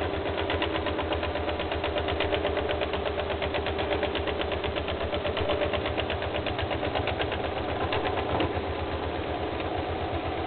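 Bipolar stepper motor from an old scanner running steadily under a driver board, stepped at about 125 Hz per phase: an even, rapid pulsing buzz of steps with a steady hum underneath.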